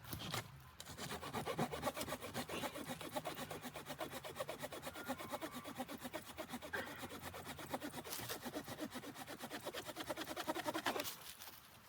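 Hand saw cutting wood in quick, even rasping strokes, starting about a second in and stopping shortly before the end.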